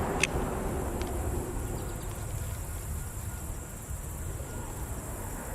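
Steady high-pitched insect chorus over a low rumble, with a single sharp click just after the start.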